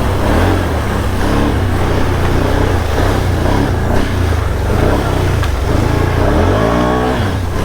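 Can-Am Outlander ATV engine running hard at speed, its pitch rising and falling with the throttle. Near the end there is a clear rev up and back down.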